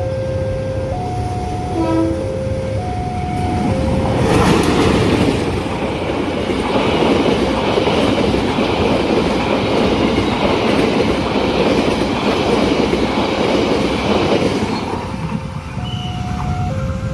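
A level crossing's electronic warning chime plays a repeating melody of steady tones, then about four seconds in a train passes loudly over the crossing for some eleven seconds, drowning the chime, which is heard again as the train clears near the end.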